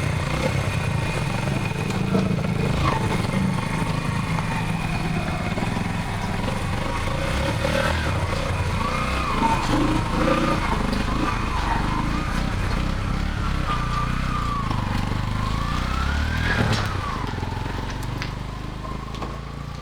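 Yamaha STX125's single-cylinder four-stroke engine running steadily at idle, now starting again after having cranked but not caught. It fades out over the last few seconds.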